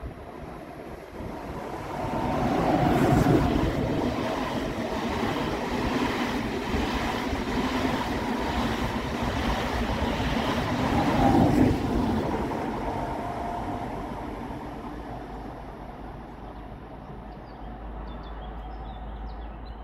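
ICE high-speed electric train passing beneath at speed: a rushing roar of wheels on rail and air that swells over about two seconds. It holds loud for about ten seconds, then fades away.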